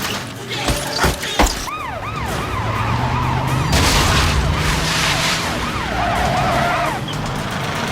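Police car sirens yelping in quick rising-and-falling cycles over a running car engine. A few sharp bangs come in the first second and a half, and a burst of harsh noise follows near the middle.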